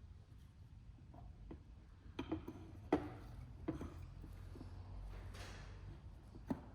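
A few light metallic clicks and knocks of small parts being handled, with the loudest about three seconds in, over a low background hum.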